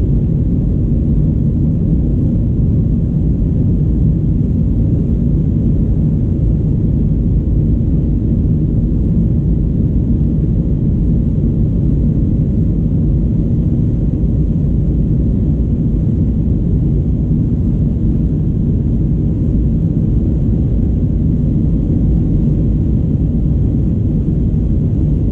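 Steady low cabin rumble of an Airbus A319 in flight: engine and airflow noise, unchanging throughout.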